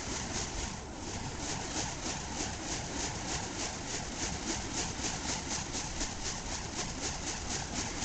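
Burning fire poi being whirled to put the flames out: a steady whoosh about three times a second as the flaming wicks swing past.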